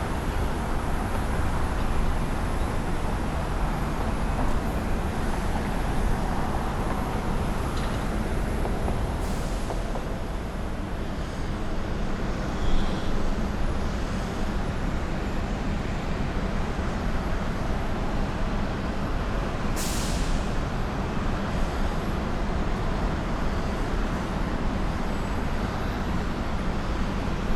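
Steady rumble of jet airliner engines and airflow as airliners land, with two brief hisses, one about nine seconds in and one about twenty seconds in.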